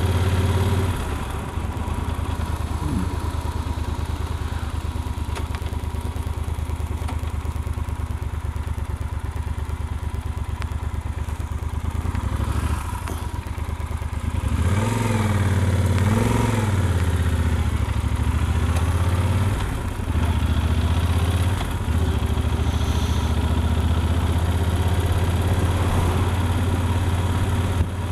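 Yamaha Super Ténéré's parallel-twin engine running steadily on the road. About halfway through the revs rise and fall a few times as the bike pulls away and shifts, then it settles back to a steady cruise.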